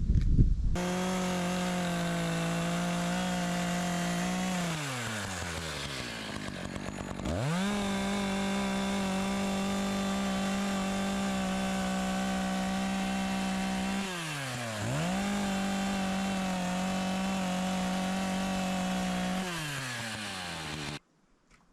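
Two-stroke chainsaw cutting the top of a wooden post, held at full throttle through long steady passes. Between passes the engine twice drops to idle and revs back up. It drops again near the end and cuts off suddenly.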